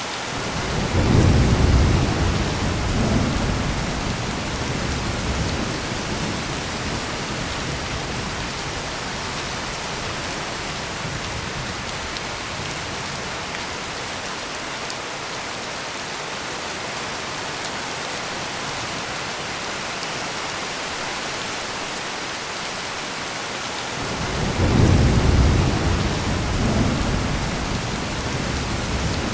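Heavy rain pouring steadily, with two low rolls of thunder: one swelling about a second in and dying away over several seconds, another rising near the end.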